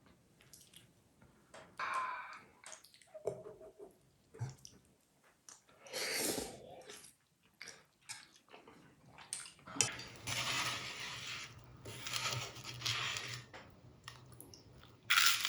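Kitchen handling sounds: dishes and cutlery clinking and scraping in short, scattered strokes. About ten seconds in, a steady hiss with a low hum begins and carries on under further clatter.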